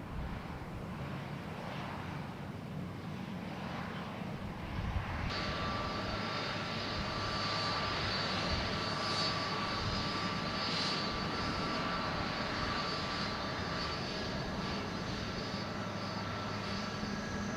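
Jet airliner engines at takeoff power: a steady roar, joined suddenly about five seconds in by a high whine of several steady tones.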